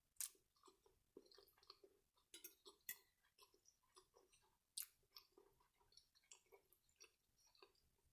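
Quiet close-miked chewing with soft wet mouth clicks and smacks, and a few sharper clicks, about a quarter second in, near three seconds and just before five seconds.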